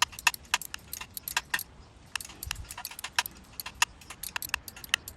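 Metal hand tools clicking and clinking while bolts are being removed from the engine: a string of irregular, sharp metallic ticks, several a second.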